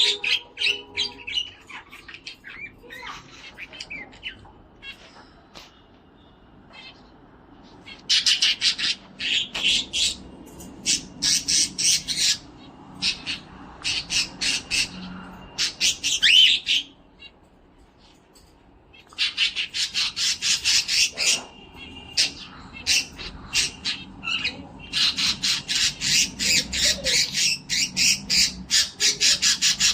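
A cockatiel calling in runs of quick repeated squawks, several a second, broken by short pauses.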